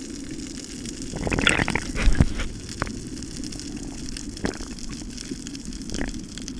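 Water rushing and bubbling around an underwater camera over a steady low rumble, louder about one to two seconds in, with a few short sharp clicks.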